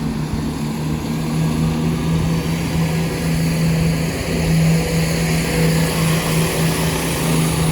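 Diesel engines of a Class 170 Turbostar diesel multiple unit running with a steady low hum as the train gets ready to pull out, slightly louder from about halfway.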